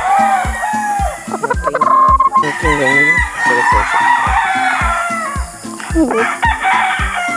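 Gamefowl roosters crowing, several calls overlapping, over background music with a steady beat of about two thumps a second.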